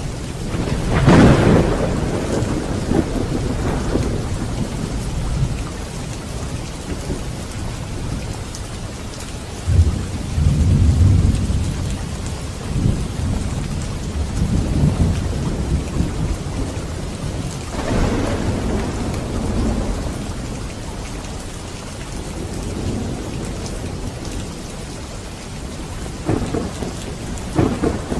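Heavy rain falling steadily with thunder: a sharp clap about a second in, low rumbles rolling through the middle, another clap a little past halfway, and a crackling peal near the end.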